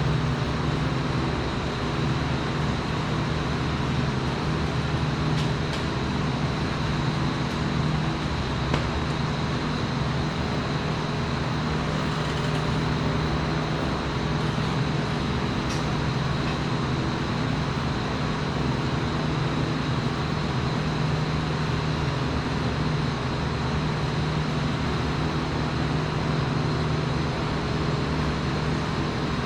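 Steady low machine drone with a faint high steady whine over it and a few light clicks, unchanging throughout.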